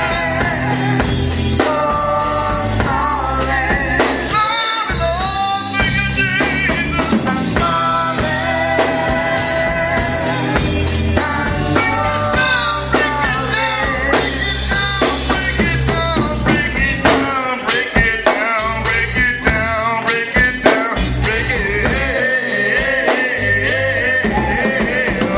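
Gospel quartet music: a band with drums plays while male voices sing.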